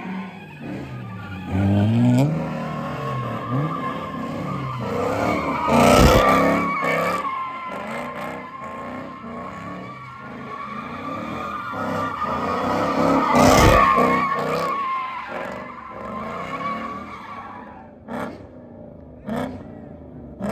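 Car tyres squealing in a long sustained skid while the engine revs up and down, swelling loudest twice. The squeal stops a few seconds before the end, leaving a few short sharp sounds.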